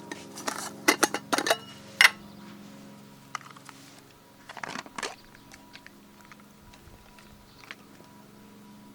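Metal camp gear being handled: a run of sharp metallic clinks in the first two seconds, then a brief clatter near the middle.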